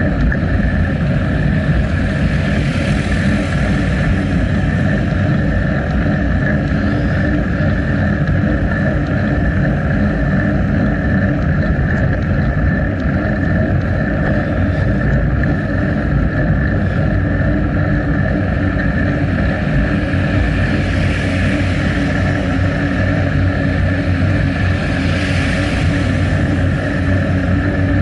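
Steady wind and rolling noise picked up by a bicycle-mounted action camera while riding, heaviest in the low end, with a few brief swells of hiss.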